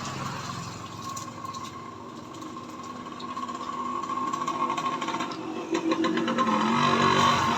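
A motor running with a steady hum, growing louder over the last few seconds.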